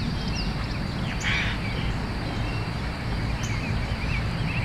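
Outdoor ambience of birds chirping here and there over a steady low background noise, with a brief soft rustle about a second in.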